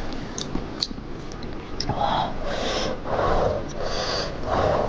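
Close-miked chewing of cooked octopus: sharp wet mouth clicks, then from about two seconds in a run of loud, noisy chews.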